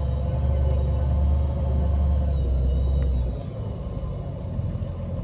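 Scania Irizar i5 bus underway, heard from inside: a steady low engine drone and road rumble with a few steady hum tones above it. The deepest rumble drops away about three seconds in.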